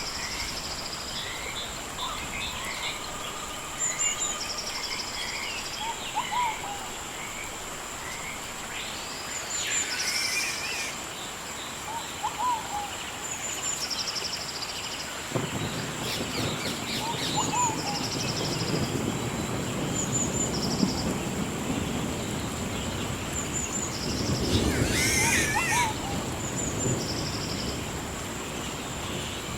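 Rainforest ambience: birds calling and chirping over a steady high-pitched drone. About halfway through, a rushing noise joins and grows louder near the end.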